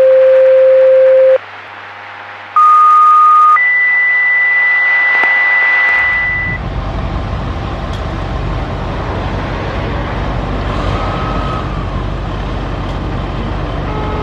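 Fire department radio dispatch alert tones: a long steady tone, then a short higher tone and a longer, still higher tone, ending about six seconds in. Then a steady low rumble of street traffic and vehicles.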